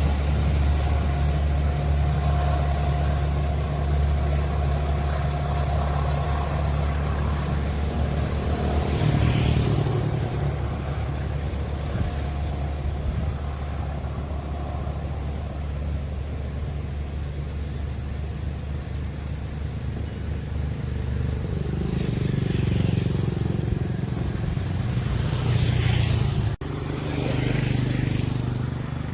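Engine noise of vehicles running steadily, swelling louder as something passes about nine seconds in and again near the end, with a brief break shortly before the end.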